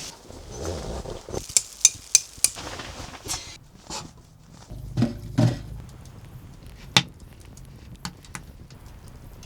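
Clinks and knocks of hard objects being handled: four quick sharp clinks about two seconds in, two duller knocks around five seconds, and one more sharp clink a couple of seconds later.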